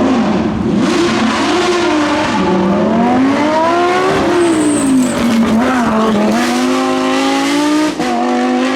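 Lamborghini Huracán Super Trofeo's V10 engine at racing speed, the revs rising and falling again and again as it accelerates and backs off through the corners, with a brief sudden drop near the end.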